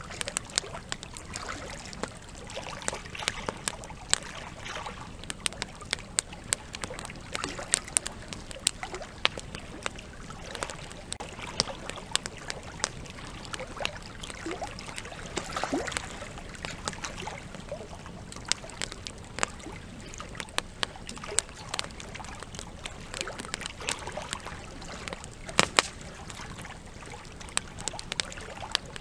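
Wood campfire crackling with frequent sharp, irregular pops, over the steady rush of flowing river water. A couple of louder pops come close together near the end.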